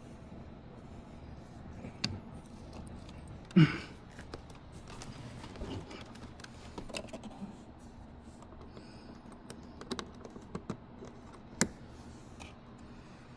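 Scattered small clicks and knocks of hands working parts and fittings inside a car door, with one louder knock about three and a half seconds in and a sharp click near the end.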